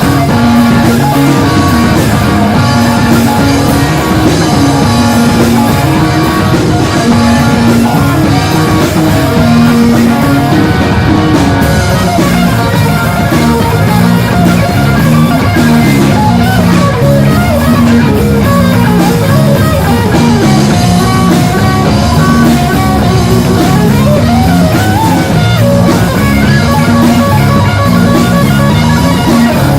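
Live rock band playing: electric guitars, bass guitar and drum kit, loud and steady, with guitar notes bending in pitch in the second half.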